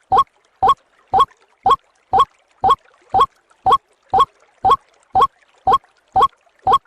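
White-breasted waterhen call, short rising 'ruak' notes repeated in a steady even rhythm about twice a second: a looped bird-lure recording.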